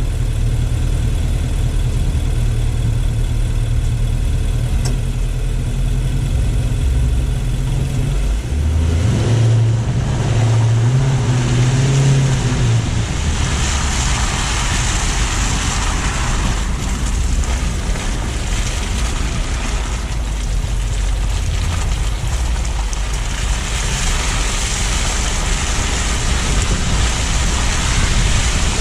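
Car engine idling steadily, then pulling away with its pitch rising about nine seconds in; after that a loud steady hiss of tyres on the road and rushing air takes over as the car drives on.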